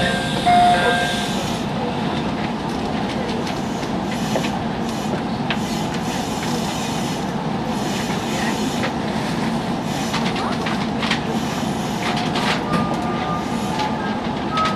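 Steady hum of a JR 313 series electric multiple unit standing at a station platform, heard inside its passenger cabin, with scattered small clicks and knocks. A few brief steady tones sound near the start and again near the end.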